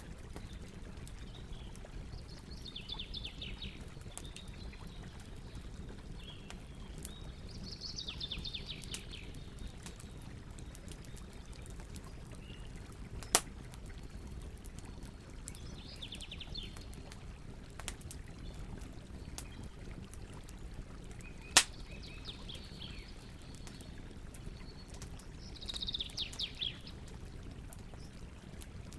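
Campfire crackling with two sharp pops, over a steady low rush of river water. A bird calls four times, each a quick trill of rapid falling notes.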